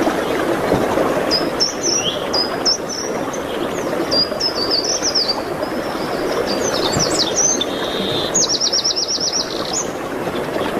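Small songbirds singing in a series of high, quick chirping phrases, ending with a fast trill of about ten rapid notes near the end, over a steady rushing background noise.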